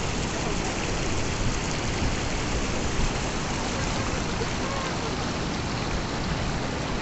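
Rushing water of a mountain stream or waterfall: a steady, even rush with no change.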